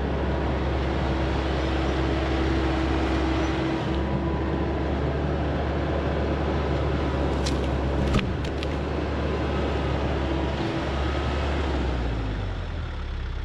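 TYM T574 tractor's diesel engine and hydrostatic drive running steadily, with a few sharp knocks about eight seconds in. The engine note drops near the end.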